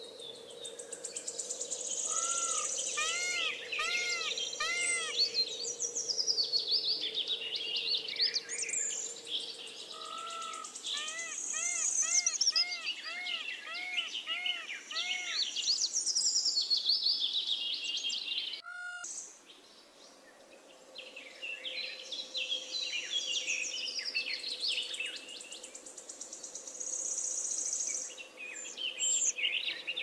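Several birds singing and chirping, with high trills and, in two runs, one bird repeating a short arched note about twice a second. A steady faint hum runs underneath, and the sound cuts out briefly a little past the middle.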